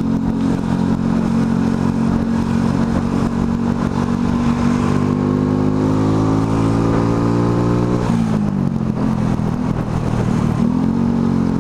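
Motorcycle engine running under way, its pitch climbing slowly for about eight seconds as the bike accelerates. It then drops quickly and climbs again near the end.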